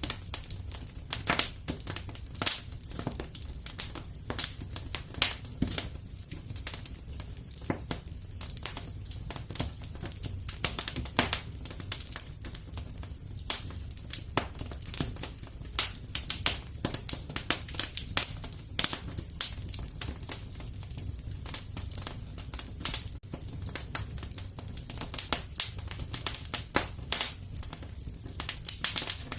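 Wood fire crackling in a fireplace: a steady low rumble with irregular sharp snaps and pops, several a second, some louder than others.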